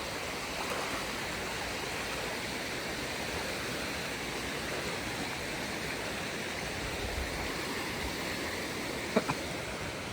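Steady rushing of a shallow stream flowing over rocks, with one short click about nine seconds in.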